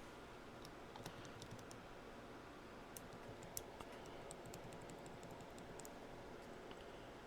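Faint, irregular light clicks and ticks from small parts of a handheld radio being handled and pressed, over a low steady background hum.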